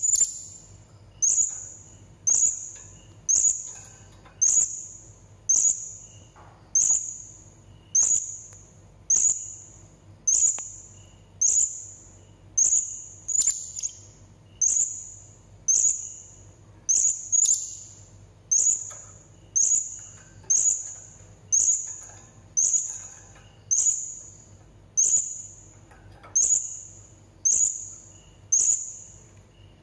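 Blue-crowned hanging parrot (serindit) giving a shrill, high single call note over and over at an even pace, a little under one a second, each note sharp at the start and quickly fading.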